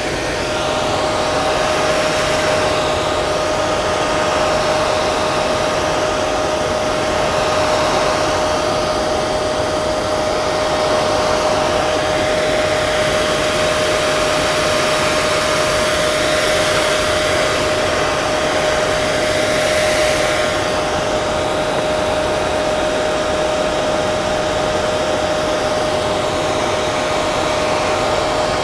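Hair dryer running continuously: a steady rushing hiss of blown air with a constant motor hum on one fixed pitch.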